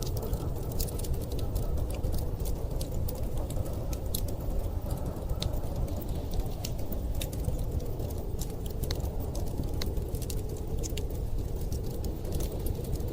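Wood fire crackling with many small, irregular sharp pops, over a steady low rush of storm wind.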